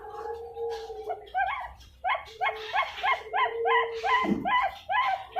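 Young zebra dove (perkutut) cooing: a held note, then from about a second in a fast run of short rising coo notes, about three a second, over a steady lower tone.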